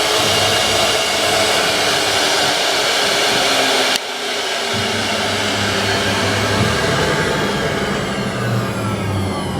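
Wood CNC router's spindle running with a steady high whine and cutting noise. About four seconds in the sound changes abruptly and turns a little quieter, and near the end several whining tones glide downward in pitch.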